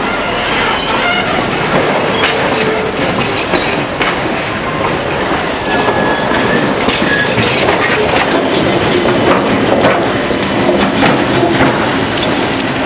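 Passenger train rolling slowly past at close range: steel wheels clicking over the rail joints, with a brief wheel squeal about six seconds in. A diesel locomotive's engine hum comes up in the second half as the locomotive draws alongside.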